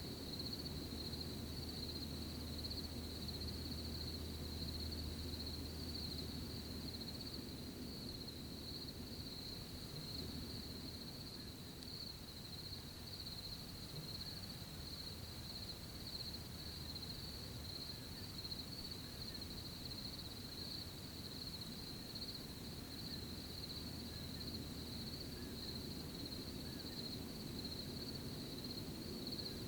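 Crickets chirping steadily, a continuous high pulsing trill, over a soft low rustling background of night ambience.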